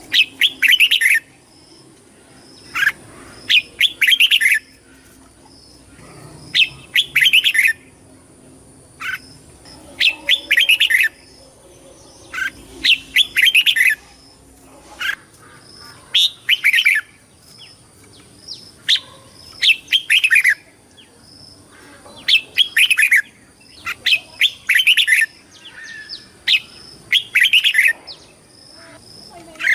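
Red-whiskered bulbul singing: short, loud phrases of quick, falling whistled notes, repeated about every two to three seconds.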